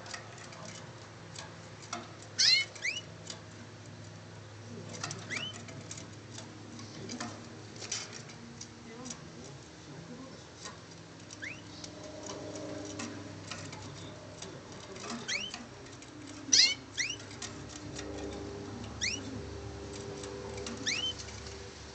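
A canary chirping: short rising chirps, some single and some in quick runs of two or three, every few seconds, with scattered sharp clicks in between.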